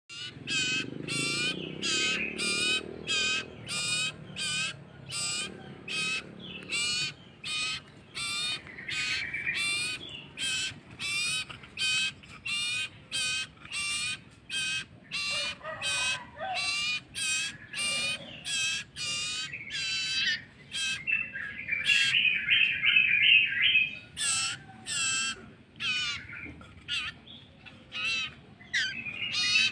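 A common iora (cipoh) chick begging, giving short, wavering high calls about twice a second while it is fed, with a faster buzzy run of calls near the end.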